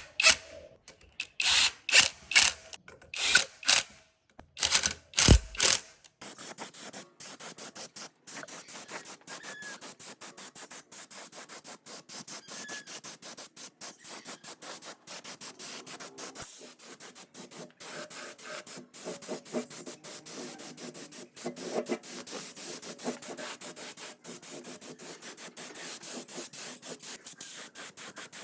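A few short, loud hissing bursts, then steady, rapid back-and-forth scraping: a rusted generator part being sanded by hand.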